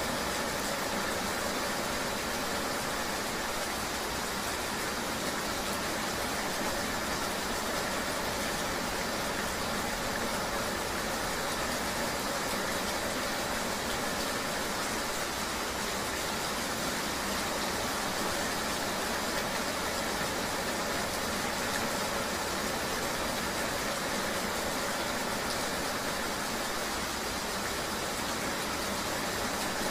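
Steady, even hiss of rain and road noise from riding in the rain, with no distinct events.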